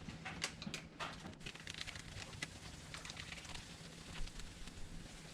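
Faint scattered small clicks and rustles of objects being handled, over a steady low hum.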